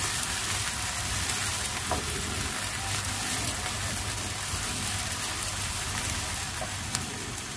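Chopped shallots and garlic sizzling steadily in hot oil in a nonstick frying pan as they are stirred with a spatula, with a couple of light ticks.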